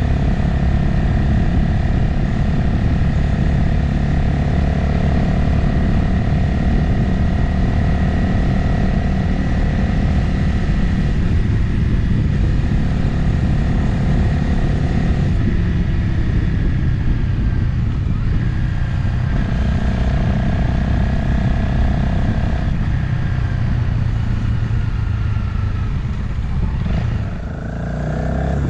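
Motorcycle engine running at road speed, heard from on the bike, under a steady rush of air. The engine note changes pitch a few times, and near the end it drops briefly, then picks up again.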